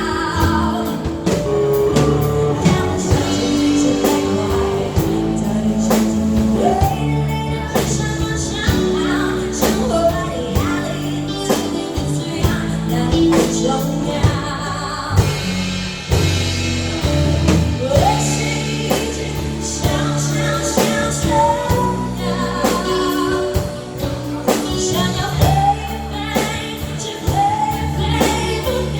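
A pop-rock band playing with a lead singer: sung melody over electric guitars, bass guitar and a drum kit keeping a steady beat.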